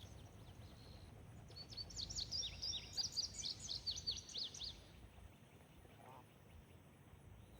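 A small songbird singing one rapid phrase of high, quickly sliding chirps. It starts about a second and a half in and lasts about three seconds, over a faint low rumble of outdoor background noise.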